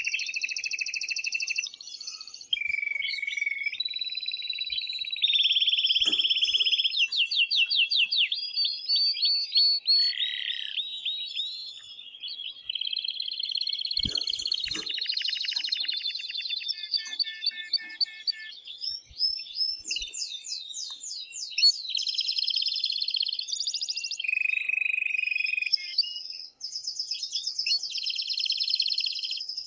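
A male domestic canary singing a long, unbroken song of rolling trills and rapid repeated notes, switching to a new phrase every second or two. It is the excited male song that stirs a female to breed.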